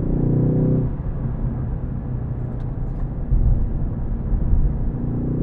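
Ford Focus ST's engine pulling strongly for about the first second, then falling back under a steady low road and tyre rumble, with the engine note swelling again just before the end.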